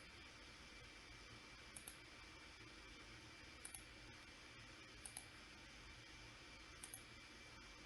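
Computer mouse clicked in quick pairs, four times about every one and a half to two seconds, over a faint steady hiss with a thin high whine.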